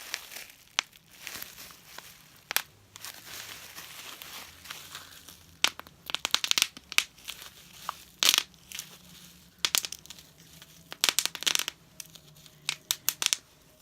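Bubble wrap being crinkled and squeezed by hand, with sharp pops that come in quick clusters; the loudest group is a little past the middle.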